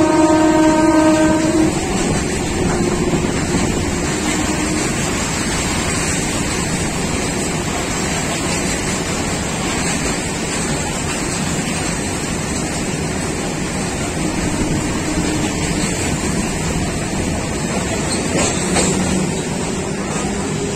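A train horn sounding for about the first two seconds, stepping down slightly in pitch and then cutting off, followed by the steady rumble and rattle of a long freight train of open wagons rolling past.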